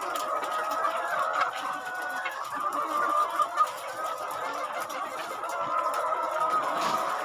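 A large flock of laying hens clucking together in a continuous, overlapping chorus, with a few sharp clicks about three and a half seconds in.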